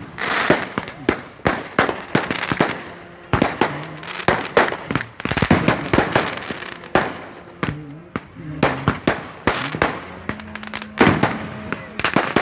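Fireworks going off: a rapid, irregular string of sharp bangs and crackles.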